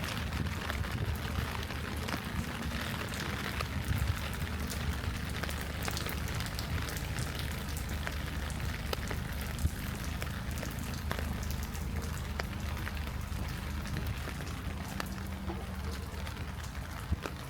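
Light rain falling steadily, with scattered sharp drop ticks over an even hiss and a steady low rumble underneath.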